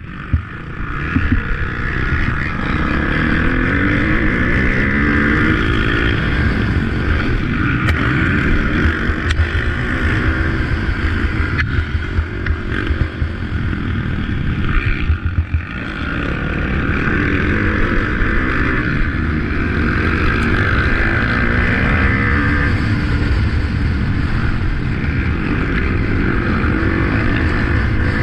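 Motocross bike engine revving hard, its pitch repeatedly rising through the gears and falling back as the throttle comes off, with a short throttle-off dip about fifteen seconds in.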